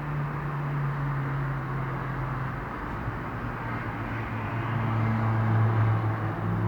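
Continuous road-traffic noise heard from high above the road: a blended hiss of tyres with the low drone of engines. One engine tone gives way to a lower one about three seconds in, which grows louder toward the end.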